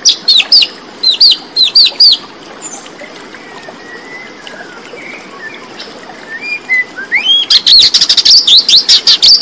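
Bird chirping: a quick series of short, sharp chirps in the first two seconds, softer calls after that, then a fast, dense run of chirps near the end.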